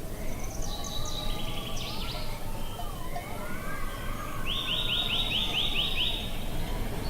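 Small songbirds singing outdoors: short high phrases in the first two seconds, then a quick trill of about seven notes about two-thirds of the way through. Beneath them a fainter wavering tone slowly rises and falls, over a steady low rushing noise.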